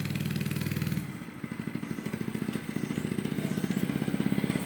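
Monster Moto 80cc mini bike's small single-cylinder engine running with a fast, even pulse. It dips about a second and a half in, then grows steadily louder as the bike comes closer.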